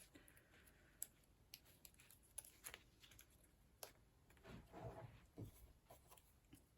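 Near silence with faint scattered clicks and taps and a brief soft rustle about five seconds in: small punched paper flowers being handled and pressed onto a card.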